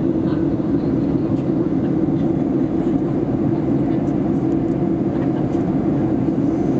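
Steady cabin noise of an airliner in flight: an even rushing drone with a low hum, unchanging throughout.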